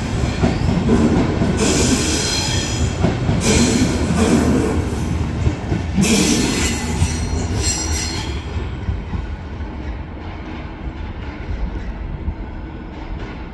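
Flixtrain passenger coaches rolling out of the station and away, with three bouts of high-pitched wheel squeal over the first eight seconds. The rumble then fades as the train recedes.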